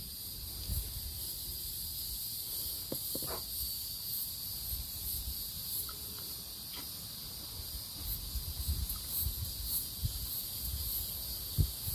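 Steady chorus of insects, a continuous high-pitched drone, over a low rumble with a few faint clicks.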